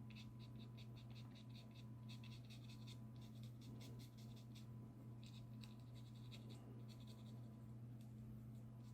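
Faint scratching of a stiff bristle brush scrubbing gouache onto watercolour paper in quick short strokes, about six a second, in several runs with brief pauses, over a low steady hum.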